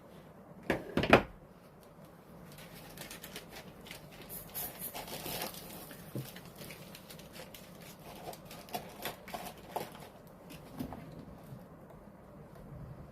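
Two sharp knocks about a second in, then scattered light clicks, taps and rustling: hand tools and a circuit board being handled on a workbench during desoldering.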